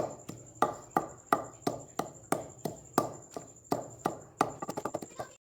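Pestle pounding garlic, ginger and green chillies in a mortar into a paste: sharp, even strikes about three a second, turning into quicker, lighter taps near the end before cutting off suddenly.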